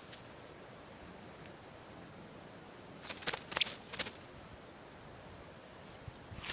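Quiet outdoor background broken about three seconds in by a brief burst of crackly rustling from the netting over the raspberry plants, where a small bird is caught and a dog is close by.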